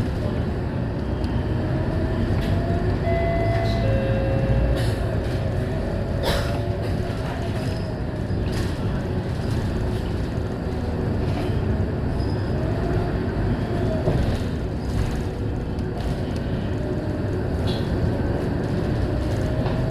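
Scania K230UB city bus on the move: a steady low rumble of engine and road noise, with a whine that rises and falls and frequent short rattles and clicks.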